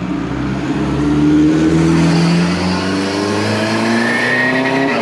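Vehicle engine running under load and slowly gaining speed, its pitch rising gently through the second half.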